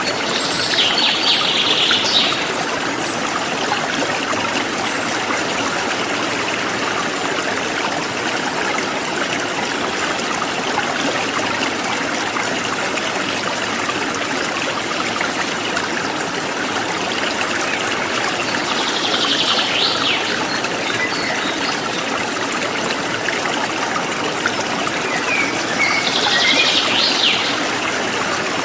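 Forest stream flowing with a steady rushing, and a small songbird giving a short burst of chirps three times: near the start, about two-thirds of the way through, and near the end.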